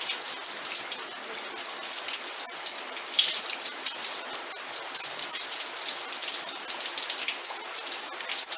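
Steady rain: an even hiss with many single drops ticking sharply, some louder than others.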